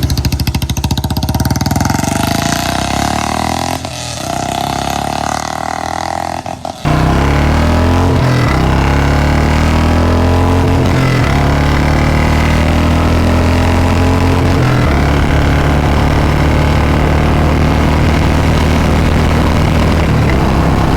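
Royal Enfield Bullet 350's single-cylinder engine, exhausting through a C-bend free-flow pipe and mini Punjab silencer, running hard under acceleration. About seven seconds in the sound jumps louder, and the engine note then changes in steps several times, as at gear changes.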